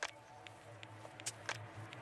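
Scattered light clicks and taps from handling a keyboard's box and packaging, over a low steady hum.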